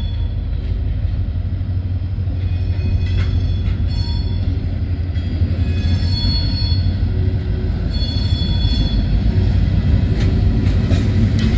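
Train running along the rails: a steady low rumble with thin, high-pitched wheel squeals that come and go.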